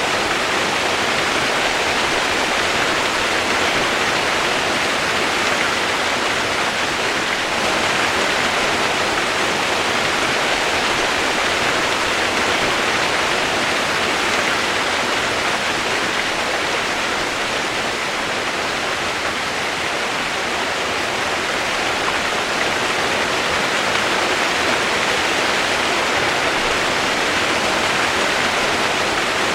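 Steady heavy rain used as white noise: an even, unbroken hiss with no single drops or other sounds standing out.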